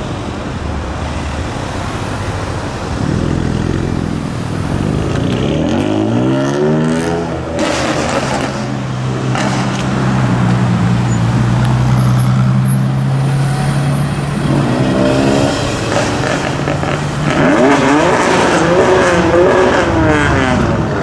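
Ferrari LaFerrari's V12 engine revving as the car moves off slowly in traffic. Its pitch climbs a few times, settles into a steady low note for several seconds, then rises and falls in quick revs near the end.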